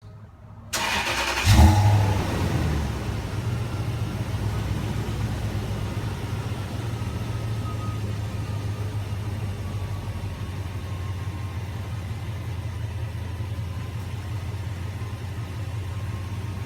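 2005 Toyota Tundra's 4.7L V8 being started, apparently on its stock exhaust: a brief crank under a second in, catching with a loud flare of revs, then settling into a steady idle.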